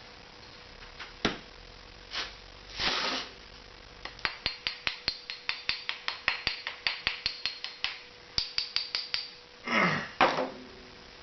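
Rapid light hammer taps on metal, about four a second for some five seconds, each with a short metallic ring, after a few scattered knocks. Short scraping rushes come just before and just after the run of taps.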